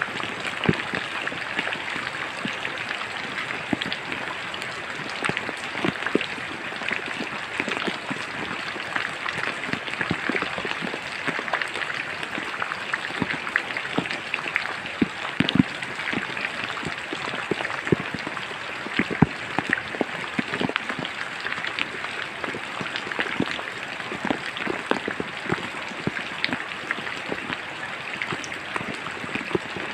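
Steady rain falling, a constant hiss with many separate drops ticking sharply on nearby surfaces.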